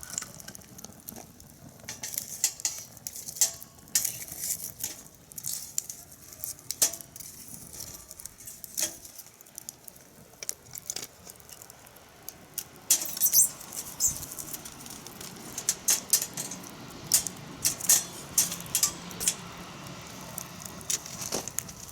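Wood fire crackling in a fire pit, with irregular sharp pops and snaps over a low steady hiss.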